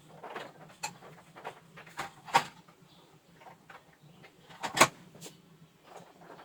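Scattered clicks and knocks of tools and parts being handled on a workbench, with two louder knocks about two and a half and five seconds in, over a steady low hum.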